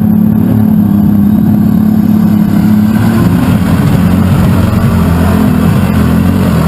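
Pulling tractor's engine running loud and hard at high revs, a steady heavy drone, with a harsher edge coming in a few seconds in.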